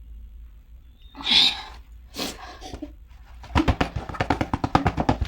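Stifled laughter breaking out: a sharp burst of breath about a second in, another shortly after, then fast pulsed laughter from about three and a half seconds on. The laugh is set off by something falling during a keep-a-straight-face challenge.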